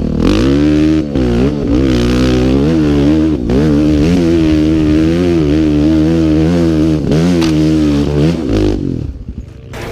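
Trail motorcycle engine revving hard, its pitch swinging up and down over and over as the throttle is worked, then falling away about nine seconds in.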